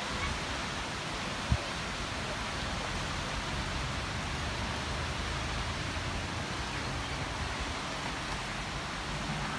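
Steady hiss of heavy rain in a storm, with low wind rumble, and one brief low thump about a second and a half in.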